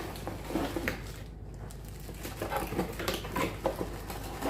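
Plastic hair dryer attachments being handled: scattered clicks, taps and rustles, with the dryer switched off.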